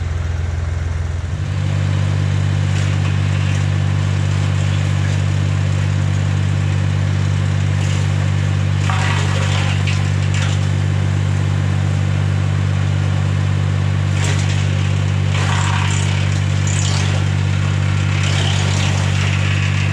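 Tractor engine driving a PTO wood chipper at steady speed, picking up speed about a second and a half in. Brush and branches are fed through and chipped in several rough crackling spells, around the middle and near the end.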